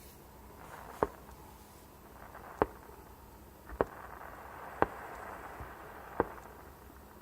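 Fireworks going off: five sharp, separate bangs at uneven intervals of about a second or so.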